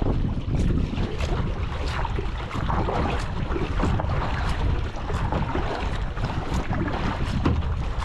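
Gusty wind buffeting the microphone, a steady low rumble, over choppy water, with many short splashes or drops pattering throughout as a rain squall comes in.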